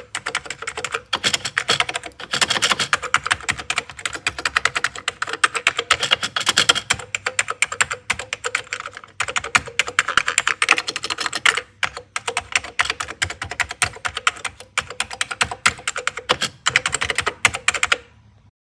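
Fast, continuous typing on a vintage computer keyboard, a dense run of key clicks with a few brief pauses, stopping shortly before the end.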